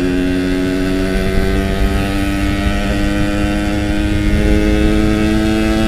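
Yamaha RX-King's two-stroke single-cylinder engine running at a steady speed while the bike is ridden.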